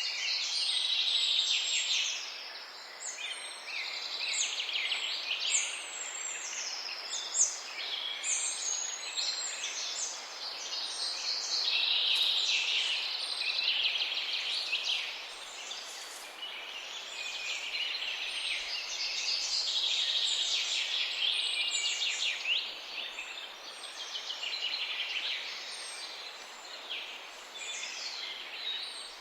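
A dense chorus of many small birds chirping and twittering at once, quick high notes overlapping without pause. The chorus swells louder and eases off several times over a soft steady background hiss.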